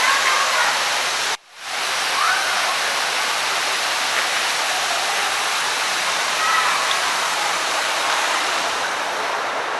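Artificial waterfall pouring into a fish pool: a steady, dense rush of falling water. The sound cuts out almost completely for a moment about a second and a half in, then the rush resumes.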